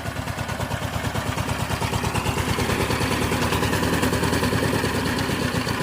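Diesel engine running with a steady, fast chugging rhythm, getting a little louder over the first few seconds.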